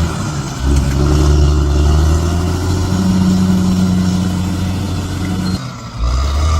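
Bulldozer's diesel engine running under load, its note stepping up about halfway. The sound drops briefly just after the start and again near the end.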